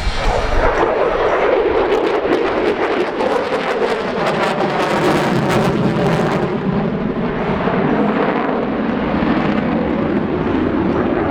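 F-22 Raptor's twin F119 turbofan jet engines roaring loudly during a display pass, with a ragged crackle through the first half that then gives way to a duller, steadier roar.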